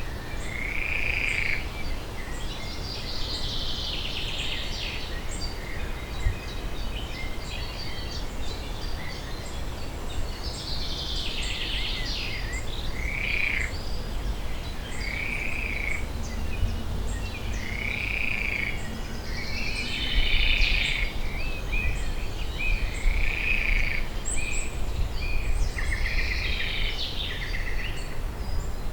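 Pond wildlife calling: a short arched call about every two seconds, each under a second long, with rattling trills in between, over a steady low rumble.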